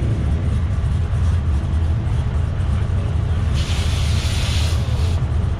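Car engine running steadily at an even low rumble with no revving. About three and a half seconds in, a burst of hiss lasts about a second and a half.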